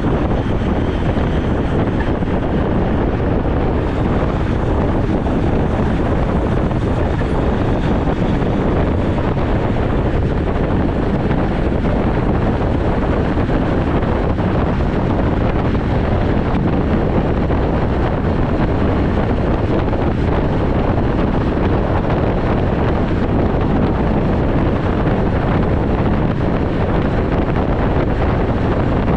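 Steady wind rushing over the microphone while riding a road bike.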